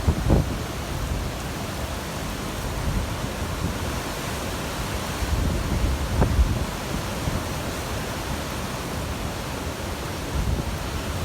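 Wind buffeting the microphone over a steady rushing noise, with rumbling gusts and two brief thumps, one right at the start and one about six seconds in.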